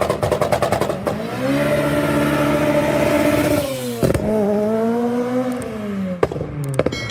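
Car engine revving hard: a fast stutter at first, then held at high revs for about two seconds before falling, revved up again and let down, with two sharp cracks near the end.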